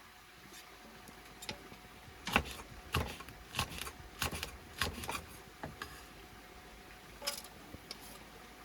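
Irregular sharp clicks and knocks of objects being handled and set down, about eight of them spread over several seconds.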